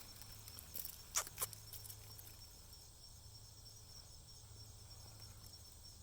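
Faint, steady high-pitched chorus of insects such as crickets, with two sharp clicks a little over a second in.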